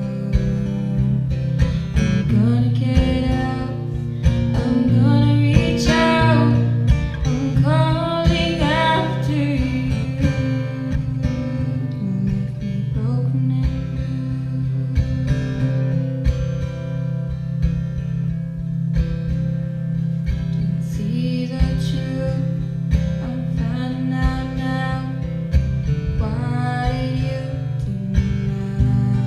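Live acoustic song: a young woman singing in phrases over strummed acoustic guitar and sustained organ chords.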